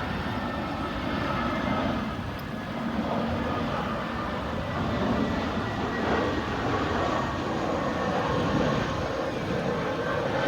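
Jet airliner's engines running steadily on the landing approach: a constant rushing noise with faint steady whining tones.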